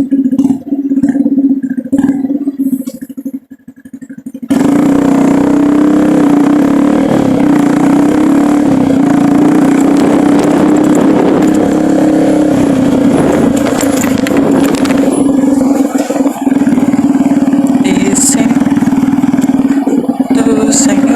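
Motorcycle engine running underway, with a steady low hum. About four seconds in, a loud, steady rush comes in suddenly and lasts to the end.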